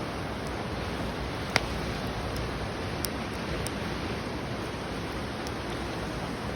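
Open wood fire burning: a steady hiss with a few sharp pops and cracks, the loudest about one and a half seconds in.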